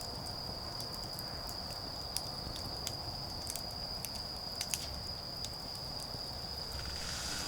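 An autumn insect calling in a steady, unbroken high-pitched trill, with a wood campfire crackling in sharp, irregular pops. A rushing hiss swells in near the end.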